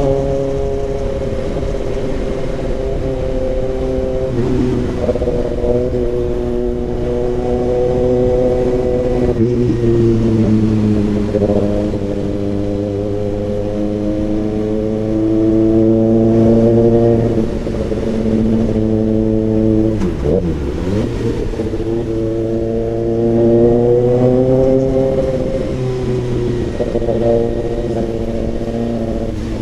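Kawasaki ZX-6R inline-four engine running through an SC Project CRT aftermarket exhaust while riding, its note rising and falling with throttle and gear changes, with several drops where it eases off.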